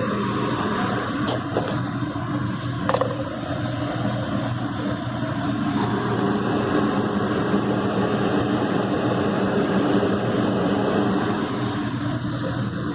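Gas furnace running with its burners lit: a steady motor hum over the constant rush of the flame and air. The furnace is burning with too little gas pressure, lean with high oxygen and low CO2, while the pressure is being turned up. A small click comes about three seconds in.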